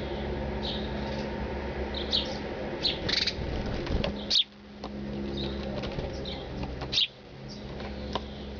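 Birds chirping in short, high calls repeated every half second or so over a steady low hum. The background drops away abruptly twice, about four and a half and seven seconds in.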